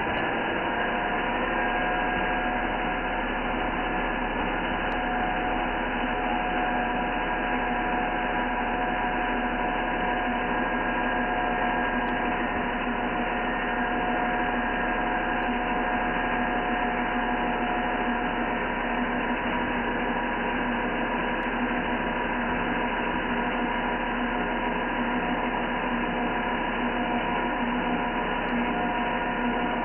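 Electric drill motor running continuously at a steady speed, a constant whine with no breaks, while drilling anchor-point holes.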